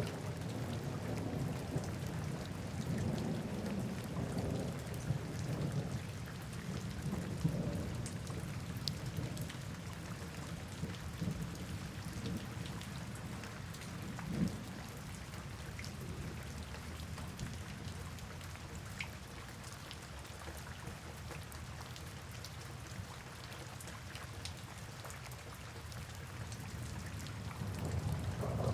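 Steady rain with low rolling thunder. The rumbles swell through the first several seconds, come once more about halfway through, and build again near the end.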